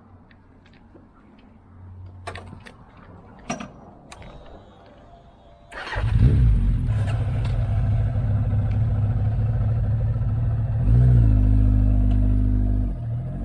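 Motorcycle engine starting about six seconds in and settling into a steady idle, revving up briefly near the end; before it, only a few light clicks and knocks.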